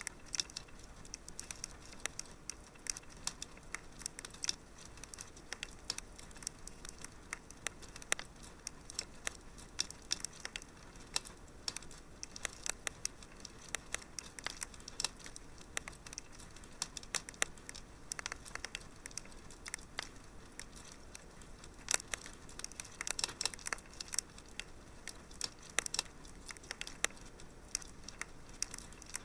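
Wood fire crackling in a fireplace: irregular sharp pops and snaps over a soft steady hiss, coming more thickly in the last third.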